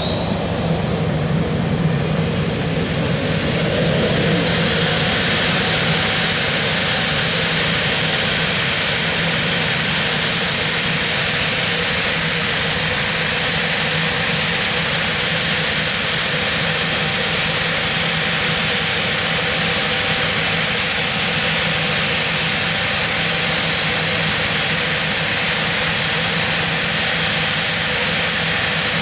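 Nimrod's Rolls-Royce Spey turbofan engines on a ground run: a high whine climbs sharply over the first few seconds as the engines spool up, then holds steady over a continuous jet roar.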